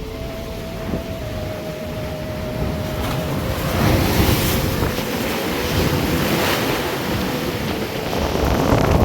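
Large sea waves breaking on the coast, with wind buffeting the microphone. The surf surges louder about four seconds in and again near the end.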